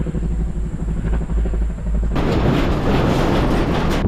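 A motor vehicle engine running with a low, pulsing rumble, cut off abruptly about two seconds in by loud wind buffeting the microphone.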